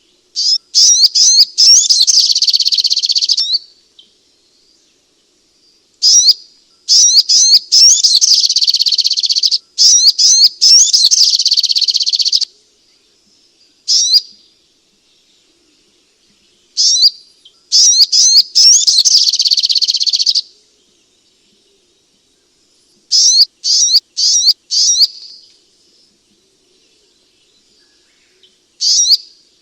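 Sunbird song, used as a lure call: high, quick chirps that run into long buzzy trills of a few seconds. Between the trills come shorter clusters of chirps, with silent pauses between the phrases.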